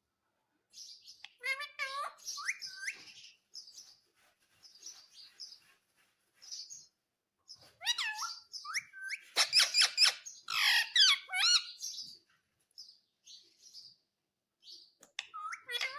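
Indian ringneck parrot calling: short high chirps scattered throughout, with louder bursts of squawky, pitch-gliding calls a second or two in and again for several seconds past the middle.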